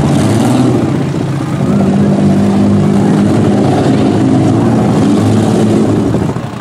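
Several demolition-derby minivan engines running and revving at once, each with its own note. One engine holds a steady high rev for a couple of seconds in the middle.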